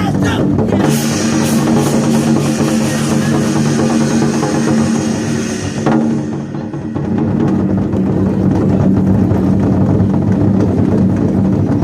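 Chinese war drums (zhangu) played by a drum troupe over a recorded backing track with steady sustained tones, with a brief dip about six seconds in.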